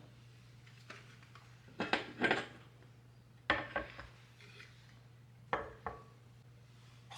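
Dishes and cutlery clinking and knocking in three short bursts, over a low steady hum.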